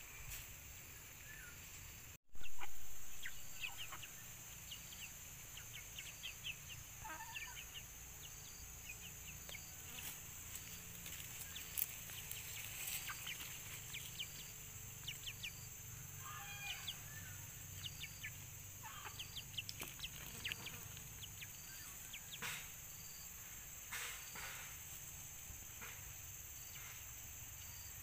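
Chickens clucking, with short high chirps scattered through, over a steady high hiss. About two seconds in, after a brief dropout, there is a sudden loud sound that fades over a second or so.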